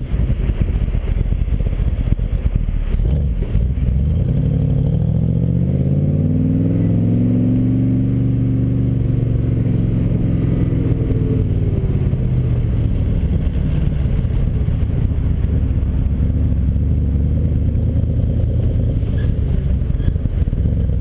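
The Superformance AC Cobra's 392 cubic inch Roush V8 running under way. The engine note climbs from about four seconds in, peaks around eight to nine seconds, then falls back and settles to a steady cruise over a constant low road rumble.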